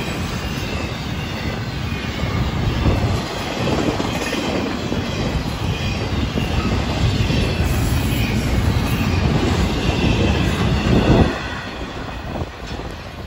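Intermodal freight train's double-stack well cars rolling past close by: steady rumble and clatter of wheels on rail, with faint high wheel squeal. The noise falls off sharply about eleven seconds in.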